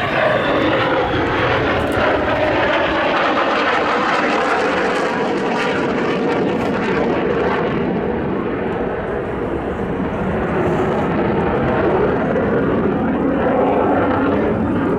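F-16C fighter jet's turbofan engine running loud and steady during a display pass, its pitch dropping in the first second as the jet goes by.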